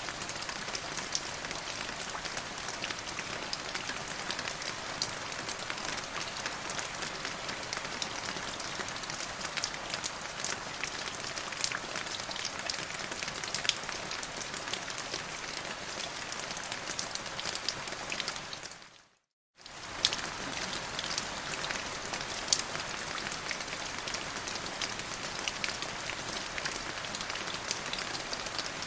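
Steady rain falling on a surface, an even hiss with many separate drop ticks. About two-thirds of the way through it fades out to silence for a moment, then comes straight back.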